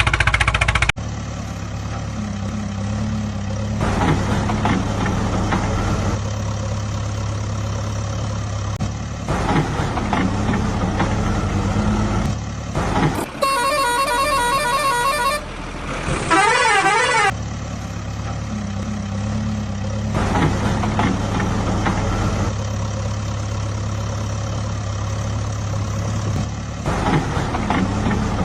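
Steady low drone of a heavy vehicle's engine. About halfway through, a horn sounds for about two seconds, followed by a brief warbling tone.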